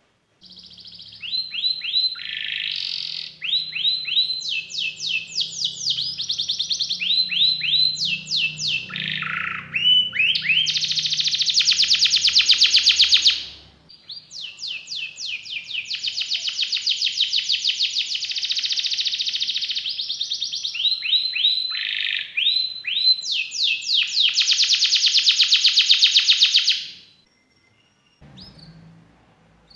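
Domestic canary singing a long song: phrases of quick repeated sweeping notes alternating with long, very fast rolling trills. It stops a few seconds before the end.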